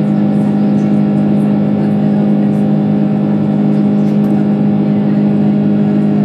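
Airbus A330-300 cabin in the climb after takeoff: steady drone of the Rolls-Royce Trent 700 engines and rushing air, with a strong constant low hum.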